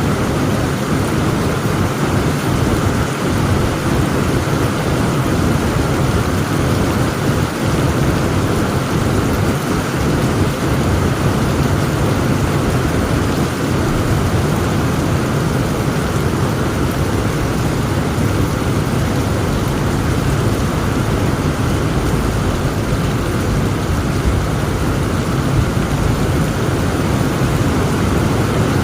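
Heavy rain falling in a steady downpour, with thunder rumbling low underneath and growing deeper and stronger from about halfway through.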